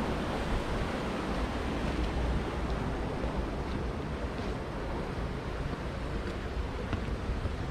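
Steady rush of water from a waterfall, with a low rumble of wind on the microphone underneath.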